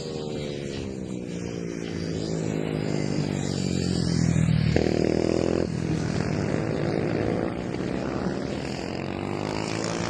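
MIR 110cc mini racing motorcycle engine under race load, its revs falling and rising repeatedly as the rider brakes, shifts and accelerates. About five seconds in, a second, higher engine note joins briefly.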